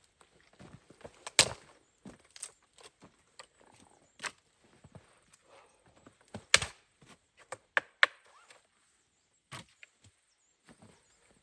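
A scattered series of sharp knocks and cracks at uneven intervals. The loudest comes about six and a half seconds in, and a quick pair follows shortly after.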